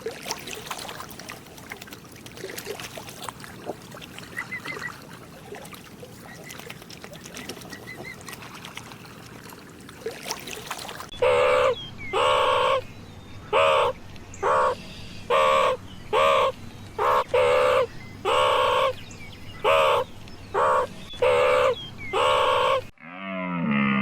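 Outdoor ambience with a few faint chirps. About halfway through, an animal starts a series of about a dozen short, loud calls, roughly one a second, which stop abruptly near the end.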